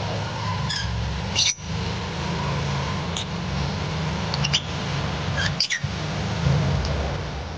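Pet lovebirds giving short, sharp, high chirps about five or six times, spread across a few seconds, over a steady low rumble.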